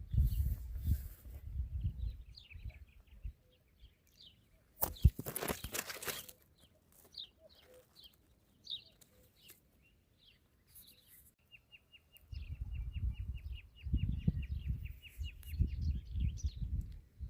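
Small songbirds chirping, then one bird singing a fast, even trill of repeated notes for about four seconds. Low wind rumble on the microphone comes and goes, with a sharp loud gust or knock about five seconds in.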